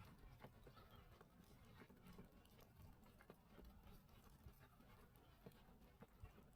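Faint footsteps crunching in snow, a step every half-second or so, over a low steady rumble.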